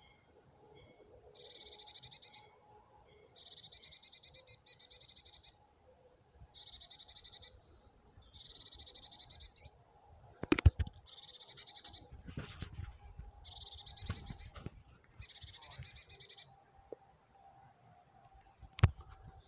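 A songbird repeating a rapid, high trill about a second long, roughly every two seconds. Two sharp knocks cut in, one about halfway through and one near the end, the loudest sounds here.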